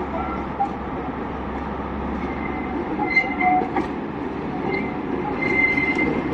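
Class 43 HST diesel power car approaching at the head of a train on curved track: a steady rumble that grows louder near the end, with brief high wheel squeals twice along the way.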